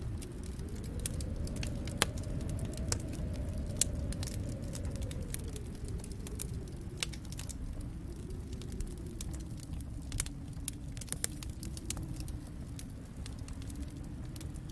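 Wood fire crackling in a fireplace: scattered sharp pops and snaps, the loudest about two and four seconds in, over a low steady rumble.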